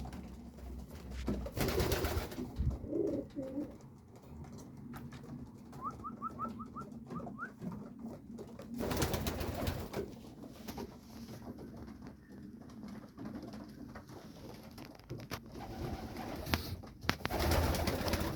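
Male racing pigeons cooing, with three bursts of rustling noise, the first about two seconds in, the second about nine seconds in and the last near the end. About six seconds in there is a quick run of six faint, high, rising chirps.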